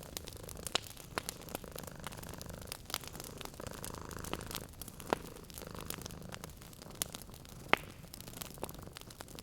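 Wood fire crackling with irregular sharp pops, one louder pop about three-quarters of the way through, over a low steady purring from a sleeping cat.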